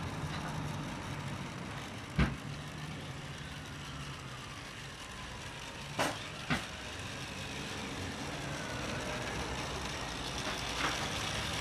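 A model OO gauge electric locomotive running on track, with a steady low motor hum and a few sharp clicks.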